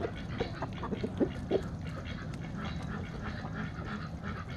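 Ducks quacking, with several short calls in the first second and a half, over steady chatter from the flock.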